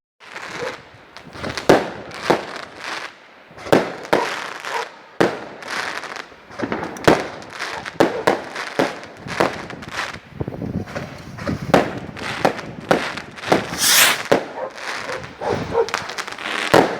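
Fireworks going off in a near-continuous string of bangs and crackles, several a second, with a brighter hissing burst about fourteen seconds in.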